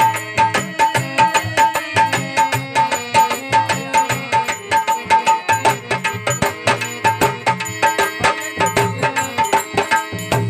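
Instrumental interlude of a devotional folk bhajan: a dholak plays a fast, steady rhythm under a short melodic figure that repeats over and over, with no singing.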